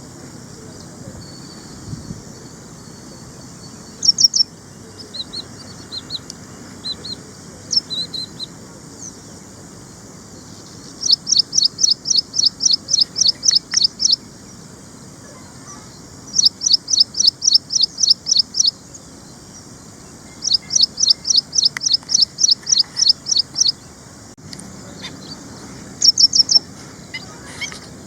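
Ashy prinia singing: runs of rapid, repeated high notes at about four a second, each run lasting about three seconds, with shorter bursts of two or three notes between runs.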